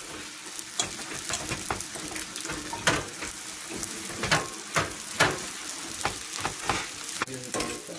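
Jamaican fried dumplings (johnny cakes) frying in hot oil in a stainless steel pan as raw dough rounds are laid in one after another: a steady sizzle with frequent sharp crackles and pops.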